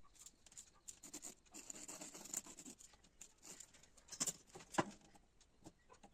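Fabric being handled and worked at a table: irregular rustling and scratching with a few sharp clicks, two of them loud just past the middle.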